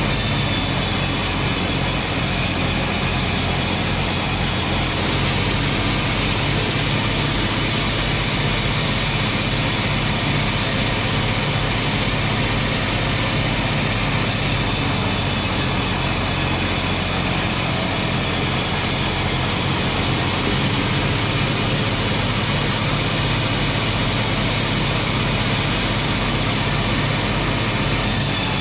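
Wood-cutting machinery running steadily and loudly: a constant low engine hum under a high, hissing sawing noise, with no let-up.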